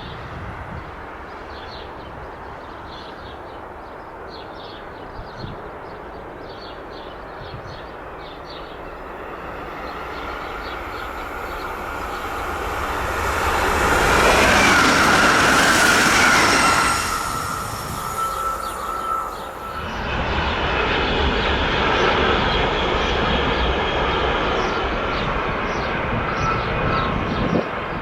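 A train passing on the mainline. It builds from about a third of the way in and is loudest about halfway through. After a brief dip it keeps running by with a steady rumble and a faint wheel squeal to the end.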